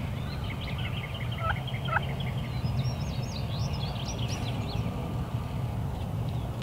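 Wild turkey gobbling: a rapid run of repeated notes over a steady low rumble.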